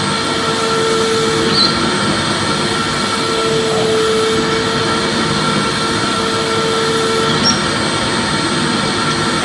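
Vacuum cleaner running steadily: an even rushing hiss with a motor hum that drops out and comes back every few seconds.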